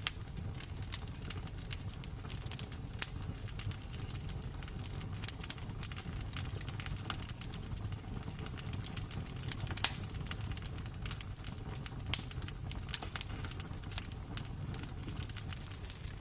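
Wood fire crackling in a fireplace: irregular sharp pops and snaps over a steady low rumble, with two louder pops about ten and twelve seconds in.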